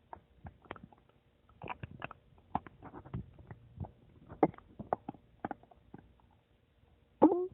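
Human stomach gurgling: a run of small irregular pops and squelches, with a louder wobbling gurgle near the end.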